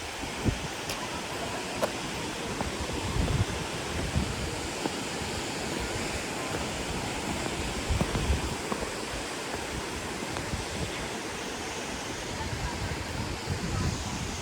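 Steady rush of falling water from a waterfall, with occasional low gusts of wind buffeting the microphone.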